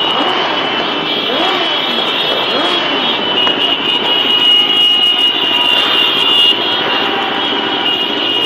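Motorcycle engines running and revving as they pass, their pitch rising and falling, over a steady high whine.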